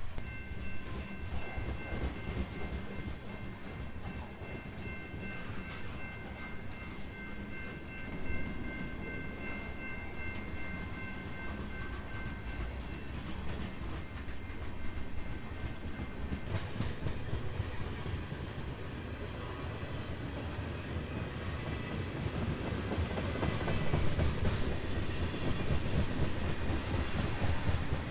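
BNSF freight train rolling past, its wheels clicking and rattling over the rail in a steady rumble, with a few faint steady high tones in the first half. It grows louder near the end.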